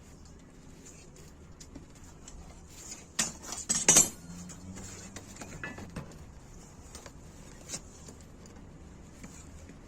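Metal objects clinking and knocking together: a quick cluster of sharp clanks about three to four seconds in, then a few lighter taps.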